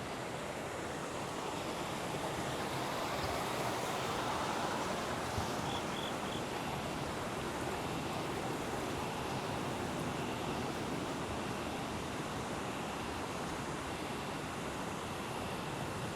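Steady rushing of flowing river water, swelling slightly a few seconds in, with three faint high chirps near the middle.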